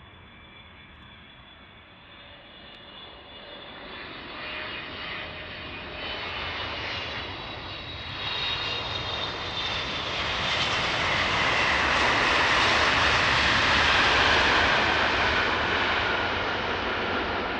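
Widebody jet airliner on landing approach: the engines' whine and rush build steadily to a peak about three-quarters of the way in, then begin to ease. The high whine slides slowly down in pitch as the plane goes by.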